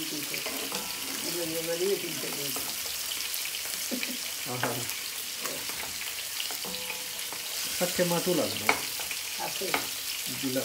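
Onions and ground spices sizzling in a little hot oil in a heavy pot while being stirred and scraped with a wooden spoon: the spices are being cooked out before water goes in.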